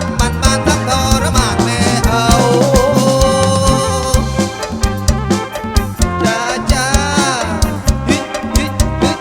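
Live Kantrum band music playing with a steady drum beat under a melody that bends and glides in pitch, with a long held note partway through and a sweeping glide near the end.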